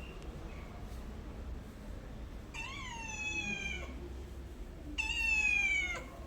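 Domestic cat meowing twice. The first meow comes about two and a half seconds in, and a louder second one about five seconds in, each sliding down in pitch.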